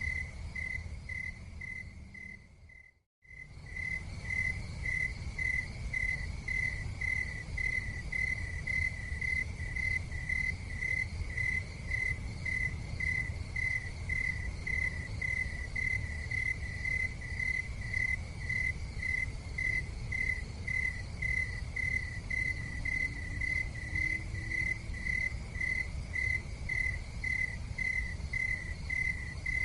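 Insects chirping in a steady, even pulse, about two to three chirps a second, over a low rumble. The sound fades and cuts out completely for a moment about three seconds in, then resumes.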